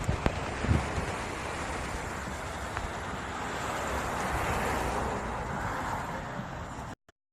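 Steady rushing wind noise over the microphone, swelling a little past the middle, with no clear engine note. It cuts off abruptly near the end.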